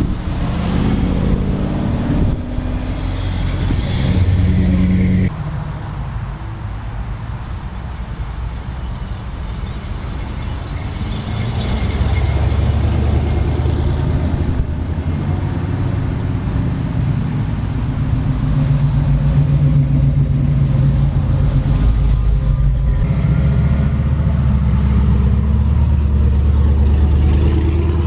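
Car engines running, getting louder with a steady low rumble from a little before halfway in.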